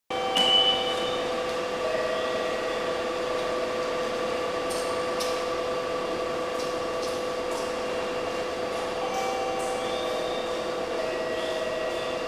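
Steady hum of a train's electrical equipment and air conditioning, holding several tones, with a few faint clicks.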